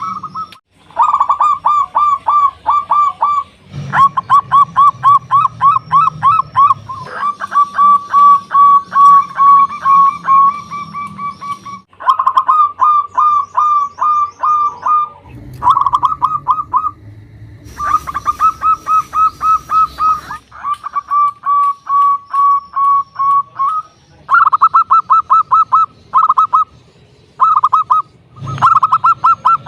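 Zebra dove (perkutut) cooing loudly in long phrases of fast, rolling notes, with short breaks between phrases.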